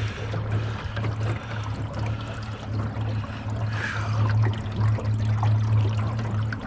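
Small boat motor running steadily at low speed, with water splashing and trickling.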